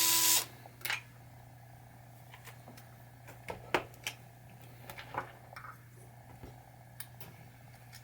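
Power drill driving a screw out, its whine stopping about half a second in. It is followed by scattered light clicks and taps of screws and parts being handled, over a steady low hum.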